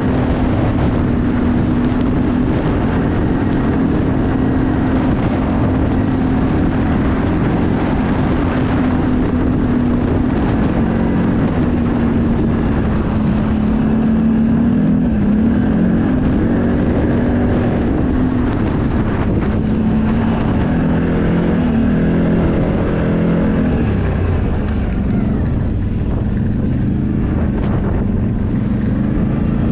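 Off-road vehicle engine running steadily during a ride, its pitch wavering up and down with the throttle about halfway through, with wind rushing over the microphone.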